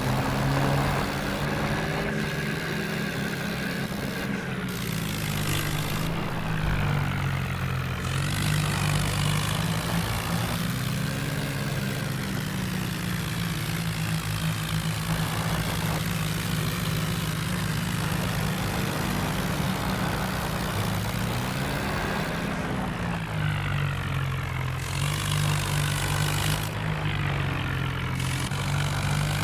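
Tractor engine running steadily at low revs, its pitch shifting slightly now and then.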